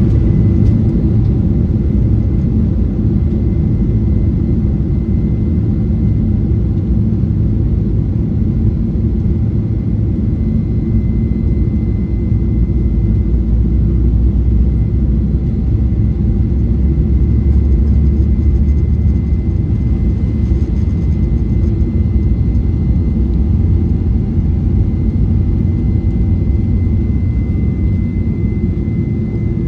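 Cabin noise of a Boeing 737-900ER jet airliner under power from its CFM56-7B turbofans: a steady low rumble with a thin, even whine above it.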